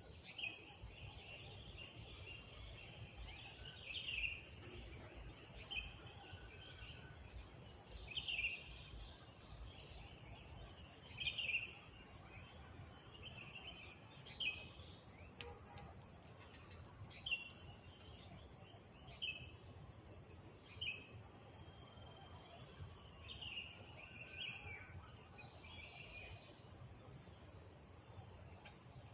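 Rural morning ambience: a steady high-pitched drone of insects runs throughout, with short bird chirps and calls every second or two over the top.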